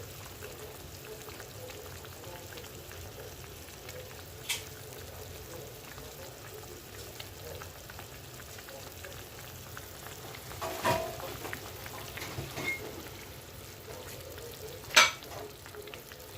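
Meat frying in olive oil and vegetable oil in a pot, a steady gentle sizzle. Three sharp knocks break in, about a third of the way in, two-thirds of the way in and near the end, the last the loudest.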